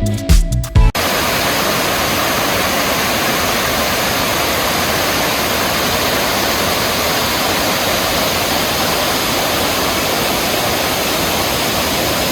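Background music with a beat cuts off about a second in, giving way to the steady, even rush of a waterfall.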